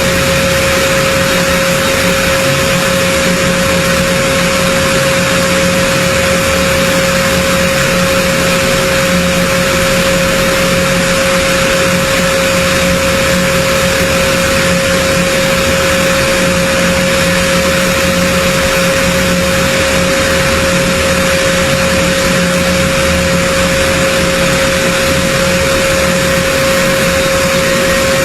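Aircraft engines running at a steady, loud level: a constant whine held on one pitch over a broad rushing noise, with no change in pitch or loudness.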